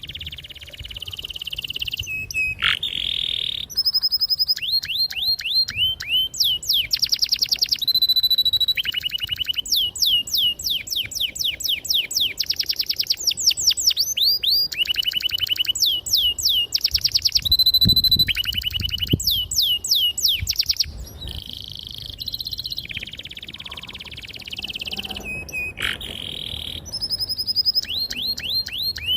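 Domestic canary singing a long continuous song of rapid trills and rolls, each phrase a fast run of repeated notes that switches to a new note or pitch every second or two.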